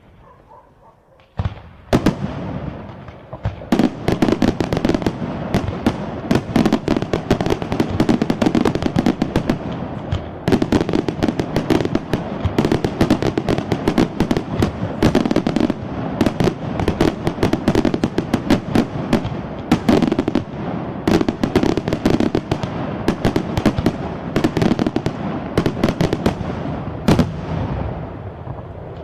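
Aerial fireworks display: a few separate bangs in the first couple of seconds, then from about four seconds in a dense, continuous barrage of rapid shell bursts and crackling.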